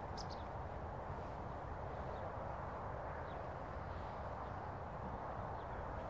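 A few faint, short bird chirps, the clearest just after the start, over a steady rushing background noise.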